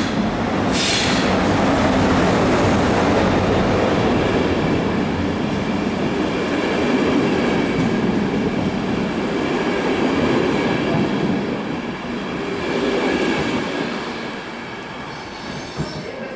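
City Airport Train double-deck set with its Taurus electric locomotive running along an underground station platform: a loud, steady rumble of wheels on rail with thin high squealing tones, easing off near the end.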